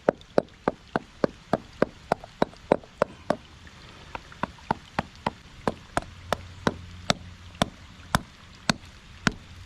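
Rock hammer striking rock over and over to chip an ammonite fossil free: sharp, even blows about three a second, slowing to about two a second after the first few seconds.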